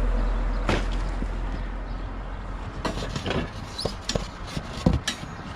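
Rummaging through a curbside junk pile: scattered knocks, clicks and rattles of items being shifted, with one sharper knock near the end. A low rumble fades away over the first two seconds.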